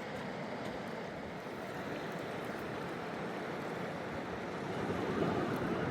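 River water rushing steadily, an even noise that swells slightly near the end.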